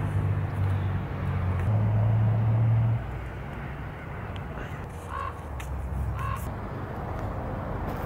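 Two short calls from a bird, about five and six seconds in, over a low steady hum that eases off about three seconds in.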